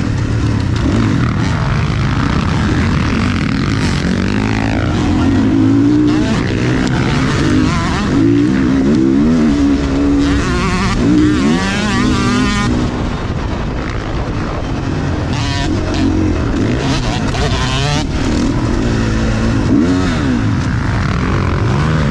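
Motocross bike engine revving hard and easing off over and over as it is ridden around a dirt track, its pitch climbing and dropping with each burst of throttle and gear change.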